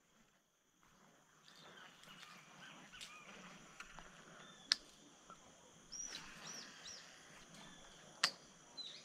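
Small birds chirping over a soft background hiss, with two sharp clicks, one a little before the middle and one near the end.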